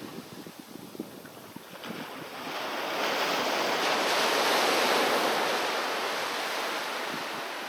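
Sea waves on a beach: after a lull with small crackles, a wave washes in about two seconds in, swells to its loudest near the middle and slowly eases off.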